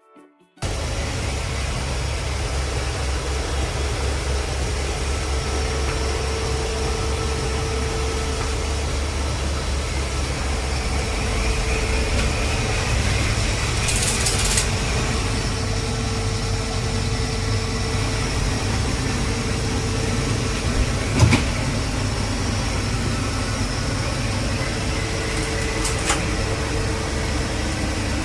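Robot vacuum cleaner running with a steady motor hum. A brief hiss comes about halfway through, and a single sharp knock comes about three-quarters of the way through.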